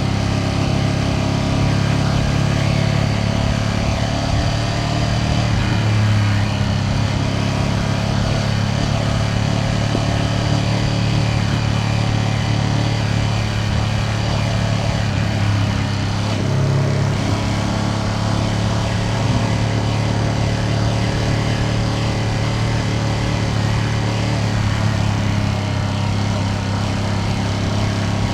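Ducati Panigale V2S twin-cylinder engine running at a steady, near-constant speed while cruising, with light wind and road noise.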